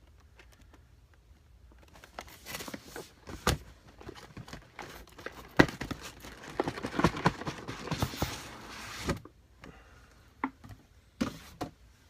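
Plastic packaging being handled and pulled apart: crinkling and rustling with sharp clicks and knocks, busiest in the middle, then a few scattered clicks near the end.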